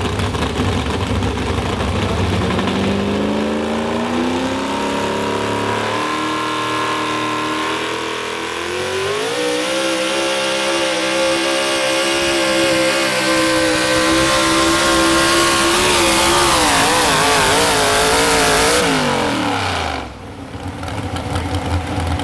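Modified 4x4 pulling truck's engine revving up and held at high revs under load during a pull. The pitch wavers near the end, then drops quickly as the throttle comes off, leaving a lower engine rumble.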